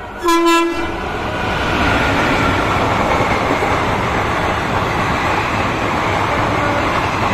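An express train's electric locomotive gives a short horn blast about a third of a second in. Then comes a steady rushing rumble as the express coaches pass through the station at speed without stopping.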